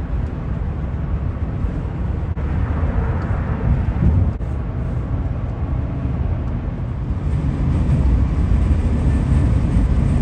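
Steady low rumble of a vehicle driving along: road and engine noise.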